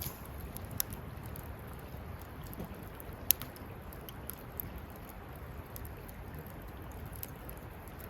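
Wood campfire crackling: scattered sharp pops and snaps over a steady low rumble, the loudest pop about three seconds in.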